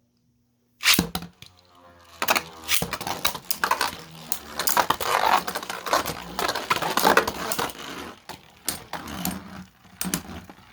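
Two Beyblade spinning tops, one 3D-printed, launched into a plastic Rail Rush stadium and battling: a sharp crack just under a second in, then a dense run of clacks, rattles and scraping as the tops collide and skid around the stadium, thinning out near the end.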